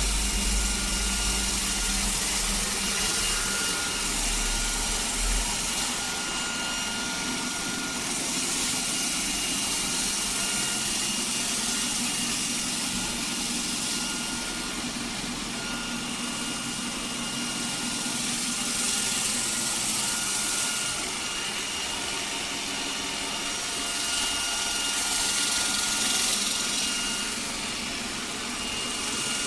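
iRobot Roomba 105 Combo robot vacuum running as it cleans: a steady motor whine with a hiss that swells and eases every few seconds.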